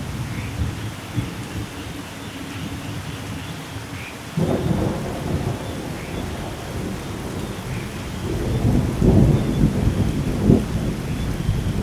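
Steady rain with thunder: a low rumble that swells suddenly about four seconds in, then grows louder and more uneven near the end.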